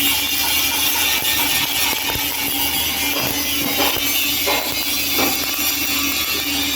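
MIG welding arc crackling steadily, with a steady hum underneath.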